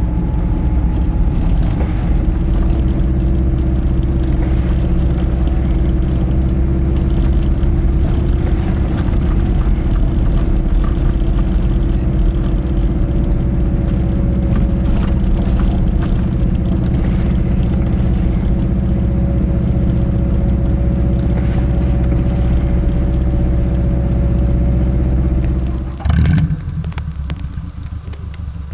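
Subaru Leone's flat-four boxer engine running steadily with a low, burbling exhaust note. About three seconds before the end it gives a short loud jolt and then settles to a quieter, lower running.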